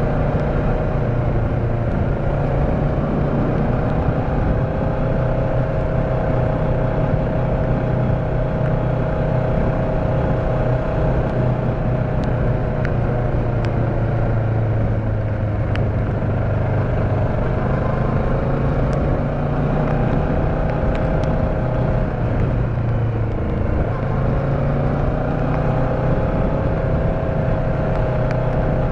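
Motorcycle engine running steadily on the road, its pitch dipping and then climbing again about three-quarters of the way through.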